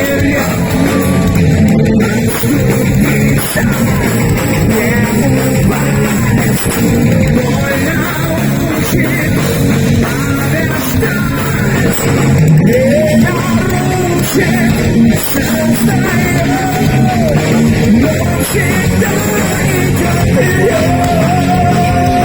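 Heavy metal band playing loud live music, with electric guitar, bass and drums and a melodic line gliding above them.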